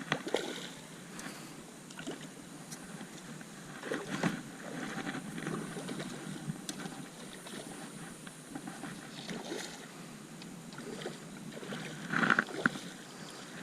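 Water sloshing and splashing around a small boat, with a few sharp knocks and splashes, the loudest near the end.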